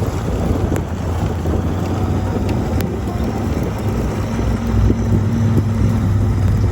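Wind buffeting the microphone over a low, steady hum, with a few faint clicks.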